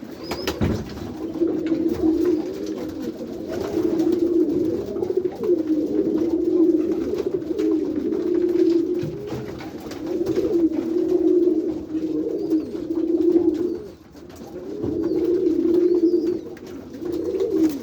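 A flock of white domestic pigeons cooing. Many birds call at once, so the low, rolling coos overlap almost without a break, with a few faint knocks among them.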